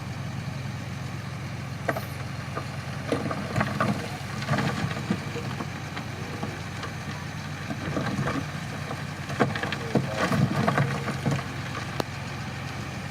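Crawler bulldozer's diesel engine running steadily, with scattered knocks and clanks from the machine at work, busiest about two to five seconds in and again about nine to twelve seconds in.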